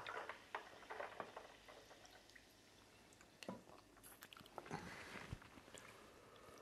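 Faint eating sounds: chewing and wet squishing of cocoyam fufu and soup taken up by hand, with scattered soft clicks.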